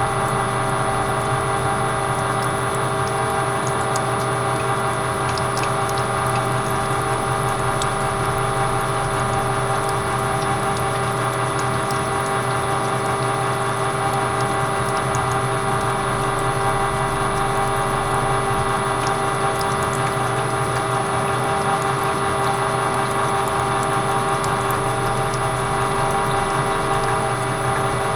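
Metal lathe running at a steady speed: a constant machine whine with several held tones over a hiss, with a few faint ticks.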